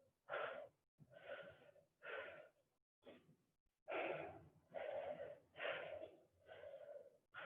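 Heavy, rhythmic breathing of a person exerting herself through repeated exercise reps: about eight hard, wheezy breaths, roughly one a second.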